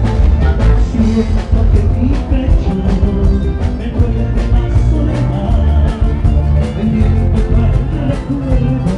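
A band playing music, with a steady drum beat and heavy bass.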